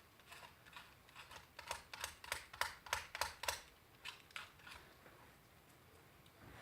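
Quick short scrapes of a scraper lifting chemically softened paint off an old bench grinder's body, about four strokes a second at their busiest, thinning out in the second half.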